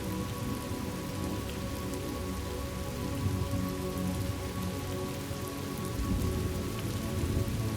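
Steady rain from a thunderstorm ambience track, with soft sustained tones of calm background music held underneath.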